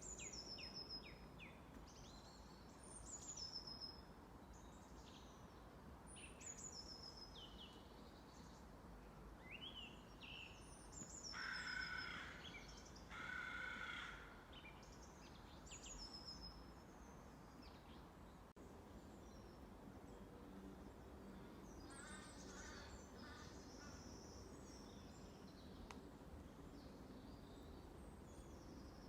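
Faint birdsong: a songbird repeats a short, high, falling phrase every few seconds. About halfway through come two harsher calls, each about a second long. A steady low background hum runs underneath.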